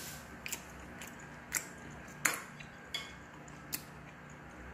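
Chewing a mouthful of raw rockfish sashimi, with about five short, sharp wet clicks and smacks, the loudest just past the middle, and wooden chopsticks being set down on a plate.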